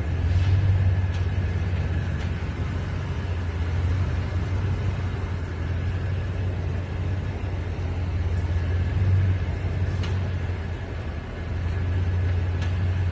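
A 2020 Toyota Tundra TRD Pro driving slowly, a steady low rumble, with a handful of faint sharp pops spread a few seconds apart. These pops come up at slow speed over uneven ground and have returned despite the dealer tightening and replacing the skid plate bolts; the cause is unknown.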